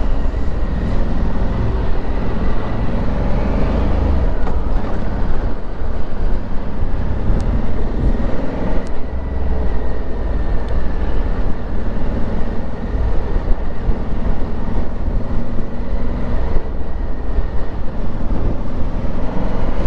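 Honda Africa Twin parallel-twin engine running under way, with heavy wind rumble, as heard from a microphone inside the rider's helmet. The engine note rises and falls a few times as the throttle changes.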